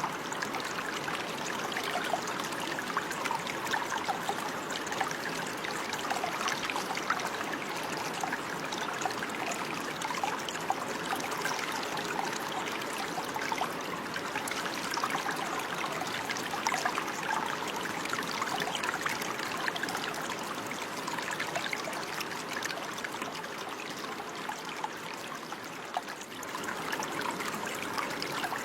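Running water: a stream or small flow trickling and splashing steadily.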